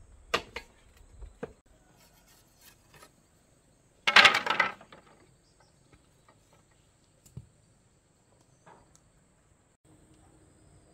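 Scattered knocks and taps, with a short loud clatter about four seconds in.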